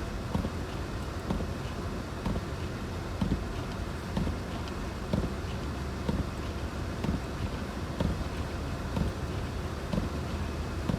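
Vehicle driving: a steady low road rumble, with a light thump repeating about once a second.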